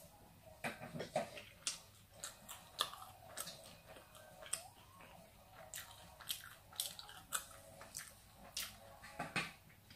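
A person chewing a mouthful of chicken fajita wrap: a run of irregular short mouth clicks and smacks, about one or two a second.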